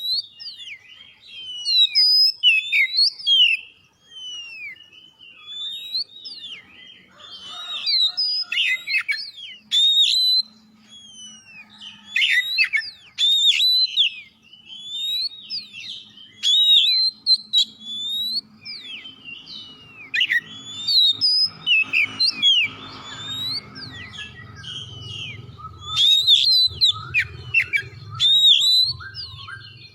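Oriental magpie-robin (kacer) singing a fast, unbroken run of loud whistled phrases that sweep quickly up and down in pitch. A faint low hum comes in under the song after about eighteen seconds.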